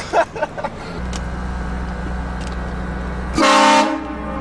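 A prank car horn sounds one loud, pitched blast of about half a second, about three and a half seconds in. Under it runs a steady low hum from the car, which starts about a second in.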